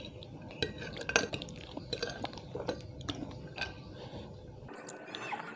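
Eating utensil clicking and clinking against a dish while instant noodles are stirred and picked up, in a scatter of sharp, irregular clicks.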